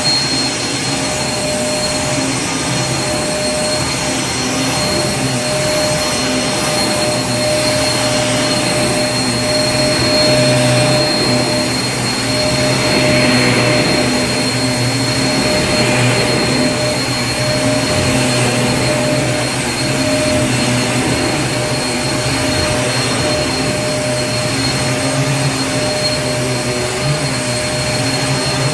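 Vacuum cleaner running steadily: an even rush of air with a constant motor hum and a high whine held on top, unchanging throughout.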